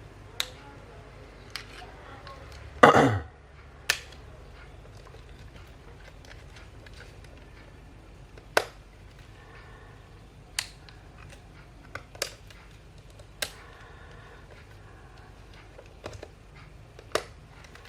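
Sharp, irregular clicks of a Fujifilm X-T3's buttons and switches being worked, about a dozen in all, with one louder knock about three seconds in. No shutter sound follows: the camera is dead and does not respond.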